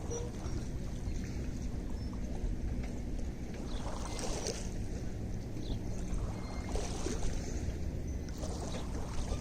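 Lake water lapping and splashing in small irregular waves over a steady low rumble.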